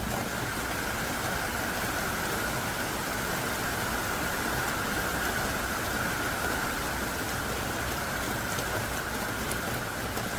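Heavy downpour of thick, hard-falling rain pouring steadily, a dense even hiss with no breaks.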